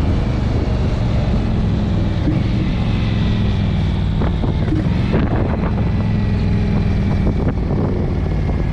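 Motorcycle engine running at a steady speed while riding, its low drone holding even throughout.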